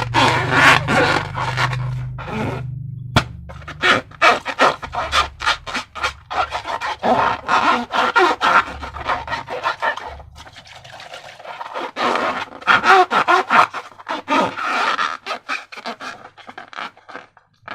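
Slime being squished and worked by hand: a quick, irregular run of squelching clicks, with short lulls about three seconds in and again around ten seconds.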